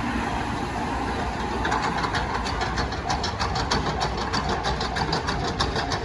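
A train passing through a railway level crossing: a steady rumble, joined about two seconds in by a fast, uneven run of sharp clacks, about five a second.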